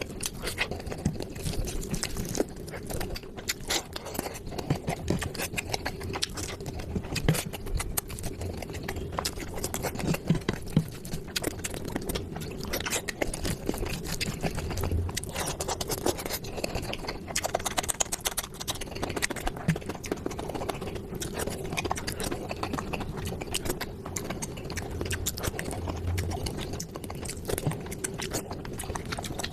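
Close-up eating sounds: wet chewing, smacking and small clicks of people eating curry with rice and puri, irregular and continuous, over a steady low hum.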